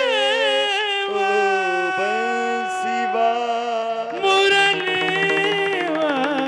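Devotional kirtan music: a sung melodic phrase, drawn out without words, wavers and bends in the first second and then settles onto long held notes over steady instrumental tones. A short bright metallic shimmer comes near the middle, and a brief louder swell about two-thirds of the way through.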